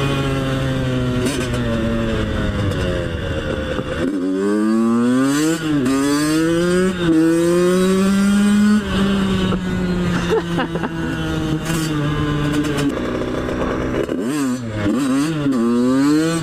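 Two-stroke dirt bike engine ridden hard, its revs repeatedly climbing and falling back, with sudden drops in revs about four seconds in and again near the end.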